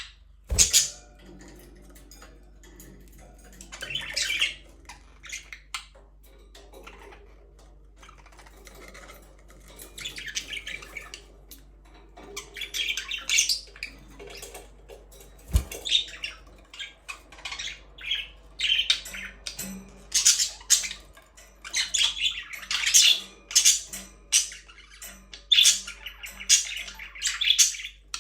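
Budgerigars chirping and chattering, with short high calls that start out scattered and become busier and almost continuous in the second half. A sharp knock comes just after the start and another about halfway through.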